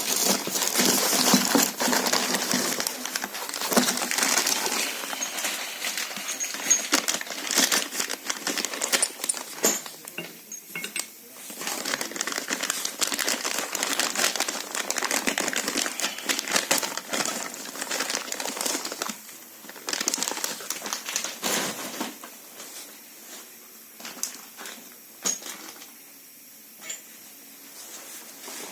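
Metal tools and parts clinking and clattering in irregular knocks while a brake caliper is being worked on. The clatter is dense for most of the stretch and thins to scattered clicks near the end.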